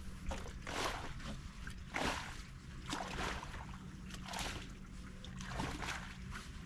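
Choppy water slapping and sloshing against a boat hull in strong wind, in quick irregular splashes over a low wind rumble.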